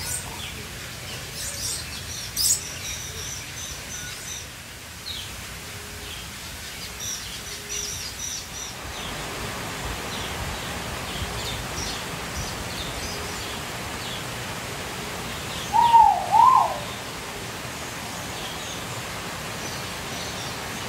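Birds chirping with many short, high calls, thinning out after about nine seconds. Two louder calls that sweep up and down come about sixteen seconds in.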